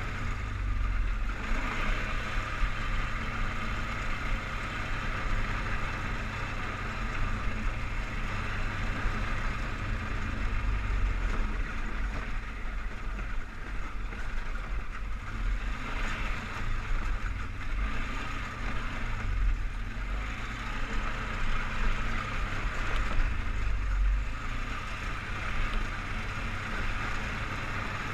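Polaris Sportsman 500 HO 6x6 ATV's single-cylinder engine running continuously under way, its low drone surging and easing repeatedly.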